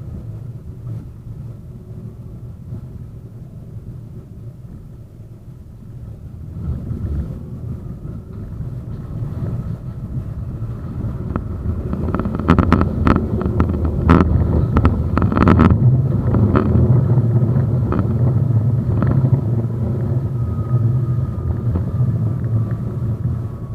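71-931M Vityaz-M tram running along the line: a low rumble that grows louder from about a quarter of the way in, with a run of sharp clicks and knocks about halfway through and a faint whine gliding down near the end.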